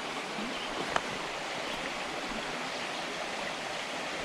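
Small stream's water running and splashing over rocks, a steady rushing sound, with one short click about a second in.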